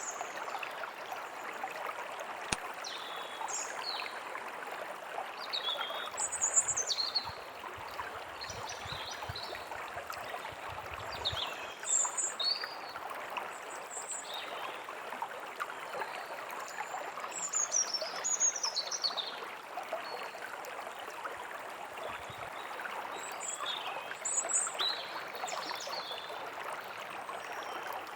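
Forest ambience: a stream flowing steadily, with small birds chirping in short calls and quick glides throughout, and a few faint low rumbles about a third of the way in.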